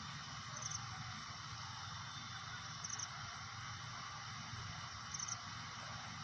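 A cricket chirping: short high chirps of three or four quick pulses, repeating about every two seconds, over a steady low hiss.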